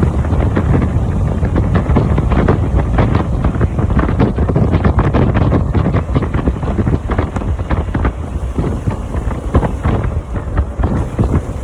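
Heavy wind buffeting on the microphone of a Harley-Davidson motorcycle riding at speed, in rapid irregular gusts, with the engine running underneath.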